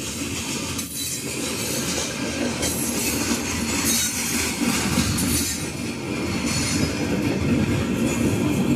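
Union Pacific freight train rolling past, a steady rumble of steel wheels on rail with some wheel squeal.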